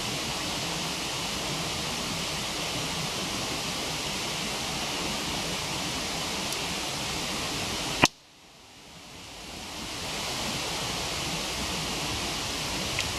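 Steady rush of a waterfall with a wood fire burning. About eight seconds in, one sharp loud pop from the fire cuts in; the water sound drops away and swells back over about two seconds.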